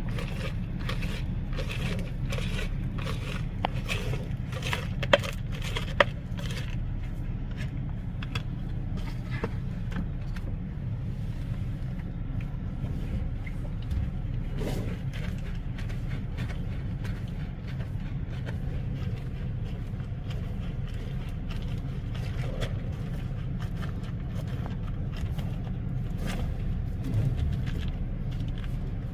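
Steady low rumble of an idling car engine. Clicks and scrapes during the first several seconds, with two sharp knocks about five and six seconds in.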